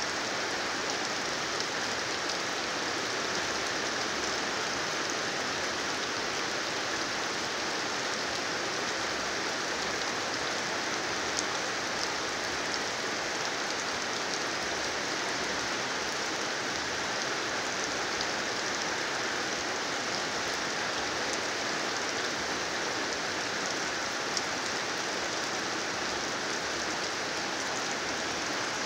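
Heavy rain falling steadily: a constant even hiss of rain on the ground, with a few sharper drop ticks now and then.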